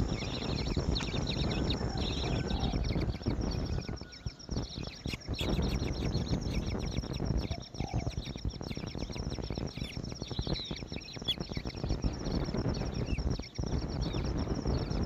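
Outdoor ambience: wind rumbling on the microphone under a steady, rapidly pulsing high-pitched chirring.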